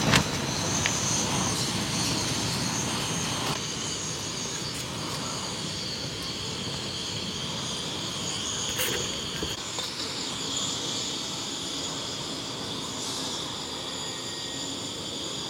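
Insects chirring steadily in a high-pitched chorus, over a low, even background rumble.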